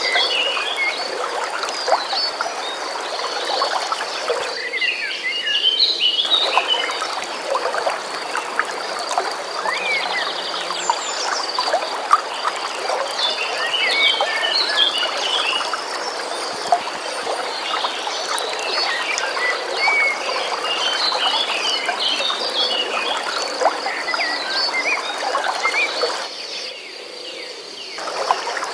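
Running water with birds chirping in short scattered phrases over a steady high-pitched trill. The water's hiss thins out briefly about a fifth of the way in and again near the end.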